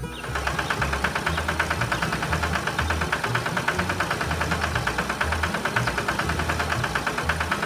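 Heavy vehicle engine idling with a fast, even chugging pulse, about nine beats a second, holding steady throughout.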